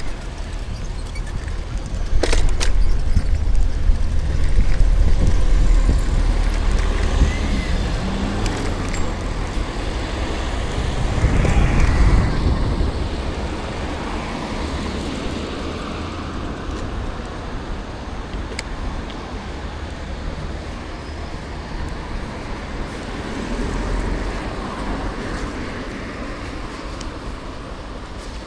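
City road traffic heard from a moving bicycle: cars driving past, the loudest swelling up and fading away about twelve seconds in, with a steady low rumble underneath and a sharp click about two seconds in.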